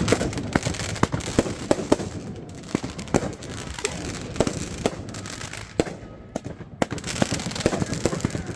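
Fireworks going off: a rapid, irregular string of sharp pops and crackles, thickest in the first second, thinning out, then quickening again near the end.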